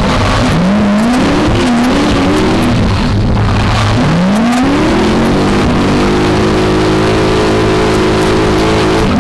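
V8-swapped BMW E30 drift car engine revving hard. The revs rise and fall several times in quick succession, drop off briefly about three seconds in, then climb and hold steady at high revs for the last few seconds.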